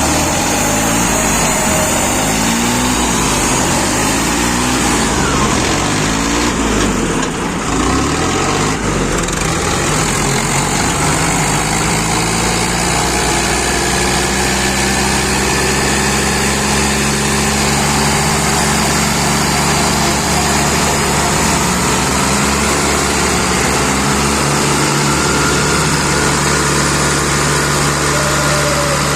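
Swaraj 744 tractor's diesel engine running loudly, its pitch rising and falling repeatedly for the first several seconds, then holding steady.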